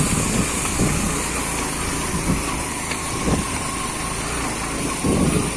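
Motorcycle running steadily while being ridden off-road, engine and riding noise together.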